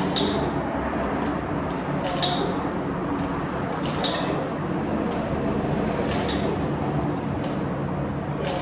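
Coin-laundry washer-dryer running a wash cycle: a steady drum rumble, with a clink every second or two as the load tumbles.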